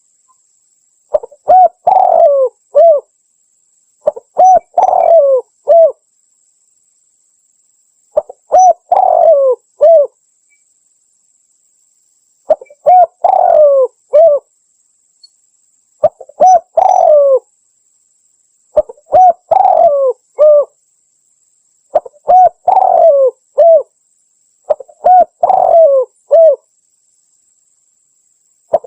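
Spotted dove (tekukur) cooing, clear and loud: a phrase of several coos repeated about eight times, with short pauses between phrases.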